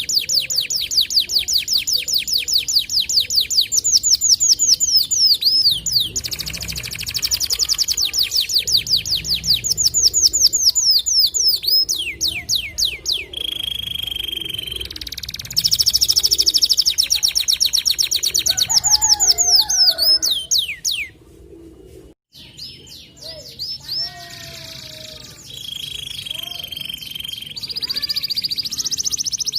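White domestic canary singing a long, fast song: rapid trills of repeated notes sweeping up and down, broken twice by a held whistled note, with a brief pause about three-quarters of the way through.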